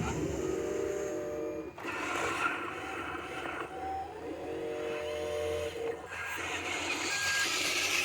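Dump truck running, its engine note steady in stretches with abrupt changes about two seconds in and again near six seconds.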